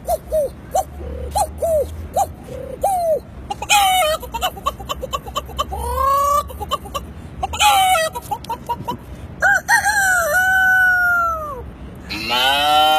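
A man imitating chickens with his voice: a quick run of short clucks, then longer rising and falling calls, and a drawn-out rooster crow past the middle. Near the end a lower drawn-out call of a different animal begins.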